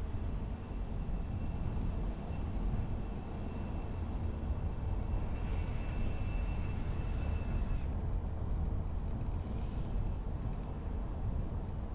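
Steady low rumble of a car driving along a road. A faint high whine joins about five seconds in and cuts off suddenly about eight seconds in.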